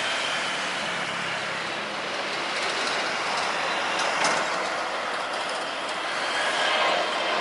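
Jet airliner engines running as a steady rushing noise, with a couple of faint clicks about four seconds in.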